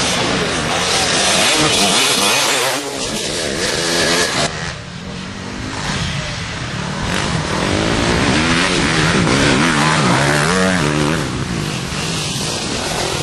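Motocross bikes racing, their engines revving up and down as they go round the track. A loud rushing noise fills the first few seconds and cuts off sharply.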